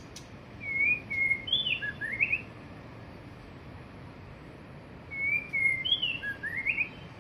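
White-rumped shama singing: two short phrases of clear whistled notes that slide up and down, the second repeating the first about four and a half seconds later, over a steady low background hiss.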